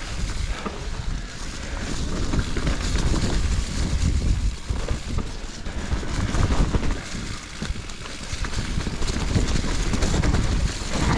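Specialized Levo electric mountain bike being ridden over rough, technical singletrack: tyres rumble over the ground, and the bike clatters with irregular knocks. Wind buffets the microphone.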